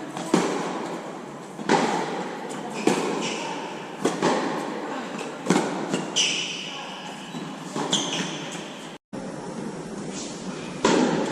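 Tennis rally: sharp hits of the ball off racquets and the court, about one every second or so, with short high squeaks in between.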